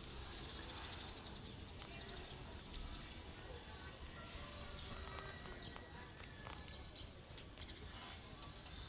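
Birds calling in a quiet rural outdoor ambience: a fast ticking trill near the start, then a few short, sharp, high chirps sweeping downward, the loudest a little past the middle.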